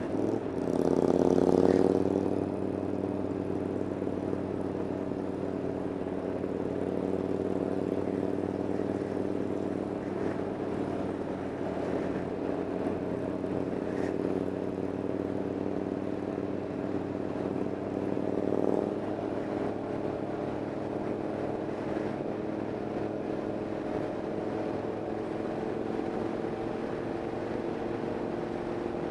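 Motorcycle engine running under way. It revs up, rising in pitch, in the first couple of seconds, then holds a steady note while cruising.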